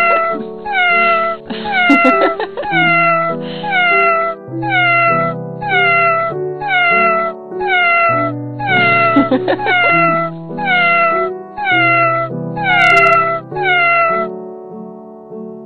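A music edit built from cat meows: short meows, each falling in pitch, repeated nearly twice a second over keyboard chords. The meows stop about 14 seconds in.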